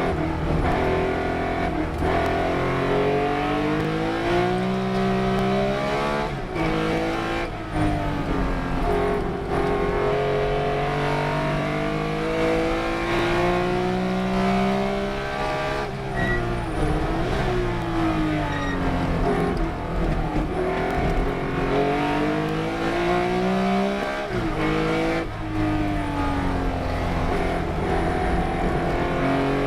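Race car engine at full racing effort, its pitch climbing steadily through the revs and then dropping away sharply before climbing again, several times over, as it shifts gear and brakes for corners.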